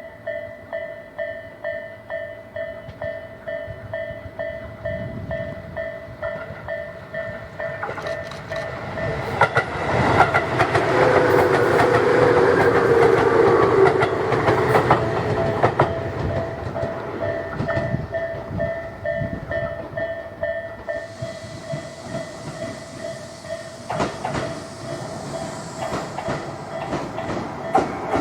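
Tobu 20400 series electric train running, its wheels clicking over rail joints about twice a second under a steady whine from its Toyo GTO-VVVF traction inverter. The sound swells and grows louder in the middle, with a tone that sinks slightly in pitch, and a high hiss joins in near the end.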